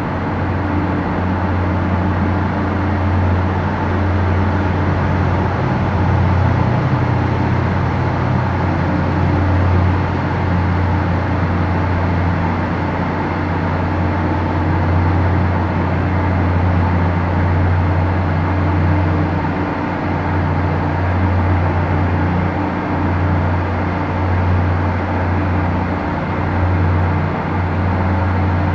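A steady, unchanging low mechanical drone, an engine-like hum.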